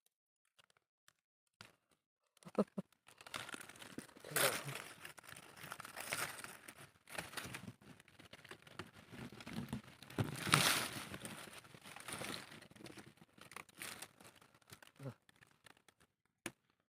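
Rustling and crinkling noises, with louder crunches about four and ten seconds in.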